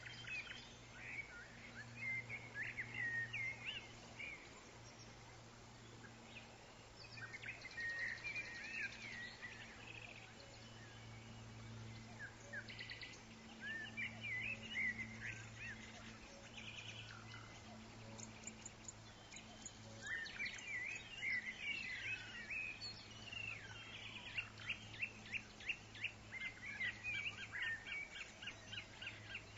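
Woodland birds chirping and singing, several calls overlapping, with a run of quick repeated chirps in the last third. A steady low hum sits underneath.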